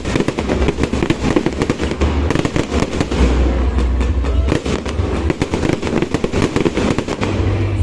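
A fireworks display going off in a dense barrage, many bangs and crackles in quick succession with no break.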